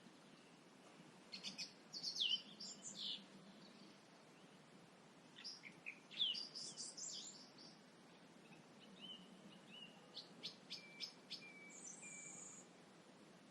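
Songbirds singing at dusk: short bursts of chirps and trills come and go, with quiet gaps between phrases over a faint background hiss.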